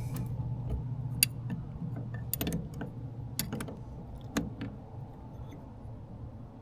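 Sharp metallic clicks and clinks of two 10 mm wrenches being fitted to and worked against the shift-shaft nuts of a 25 hp Yamaha outboard. There are a handful of separate ticks, some in quick pairs.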